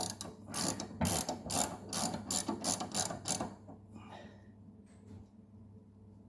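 Hand ratchet clicking in quick, even strokes as a mower blade bolt is tightened by hand rather than with an impact wrench. The strokes slow and fade a little past halfway.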